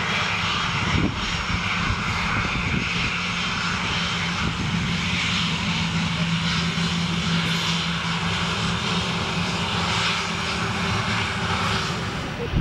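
Airliner's jet engines running near the runway: a steady loud rush with a low hum underneath, easing slightly near the end.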